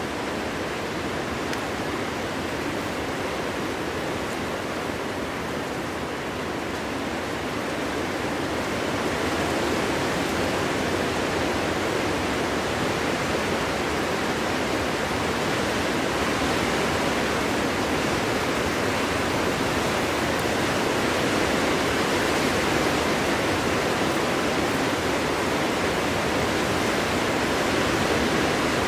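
Steady wind blowing through a forest, an even rushing noise with no distinct gusts or whistles, growing a little louder about nine seconds in.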